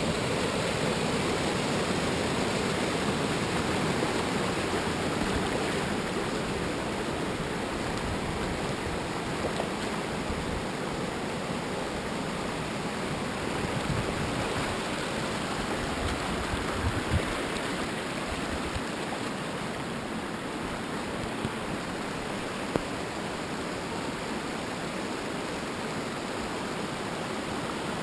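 Steady rush of flowing river water at a waterfall, with a couple of faint knocks partway through.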